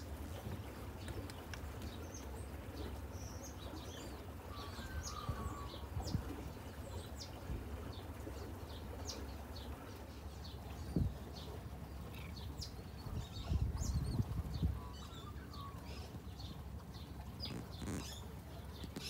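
Small birds chirping, many short high calls scattered throughout, over a steady low rumble that swells briefly about two-thirds of the way through, with one low thump just before.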